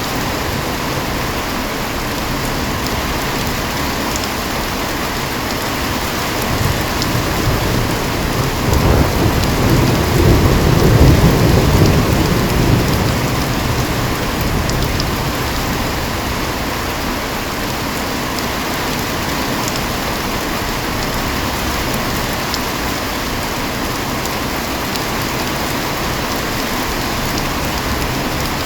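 Heavy rain falling steadily in a thunderstorm. About a quarter of the way in, a low rumble of thunder swells for several seconds, peaks, then fades back under the rain.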